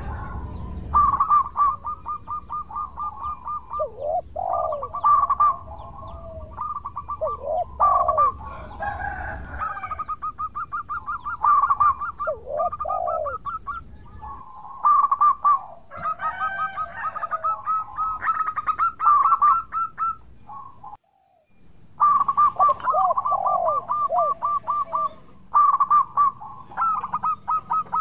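Zebra dove (perkutut) singing: phrases of rapid staccato cooing notes with lower swooping coos between them, repeated every few seconds. There is a brief break about three-quarters of the way through.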